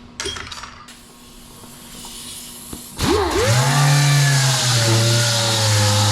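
A brief clatter in the first second, then an electric power tool switched on about three seconds in, spinning up with a rising whine and running steadily with a hiss, its pitch dropping a little partway through.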